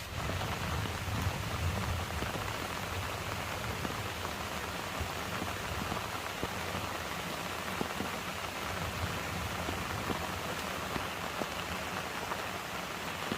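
Steady rain pattering down, a dense even patter of many small drops.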